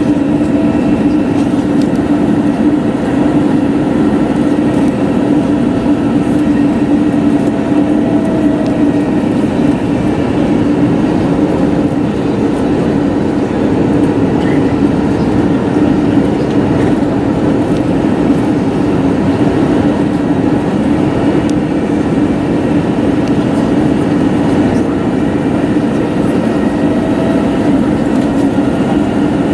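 Steady cabin noise of an Airbus A321neo in flight, with the engines' and airflow's constant roar and a low hum, heard from a window seat.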